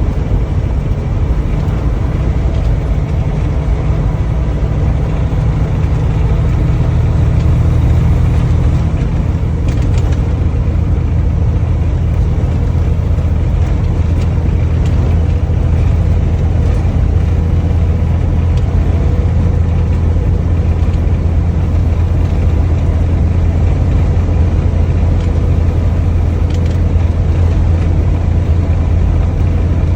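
Truck engine running while driving, a steady low drone over road noise; the drone's pitch changes about seven seconds in.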